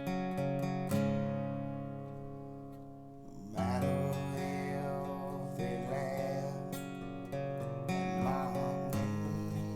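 Acoustic guitar strummed in a country ballad's instrumental break. A chord rings out and fades, then the strumming picks up again, louder, about three and a half seconds in.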